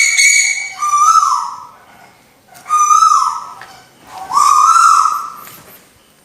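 Lure-call recording of the burung tuwu: three clear whistled calls, each held at a steady pitch for about a second and then falling away. A higher steady tone at the very start overlaps the first call.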